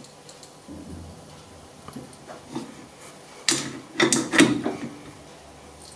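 A few sharp metal clunks and clicks from a tap handle being worked by hand to cut a thread in a part held in a metal lathe. The loudest come in a quick cluster about three and a half to four and a half seconds in.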